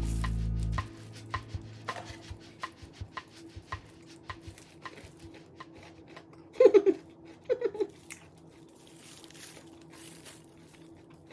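Small clicks and taps of tableware during a meal, with two louder clattering clusters about six and a half and seven and a half seconds in. Background music cuts off just under a second in.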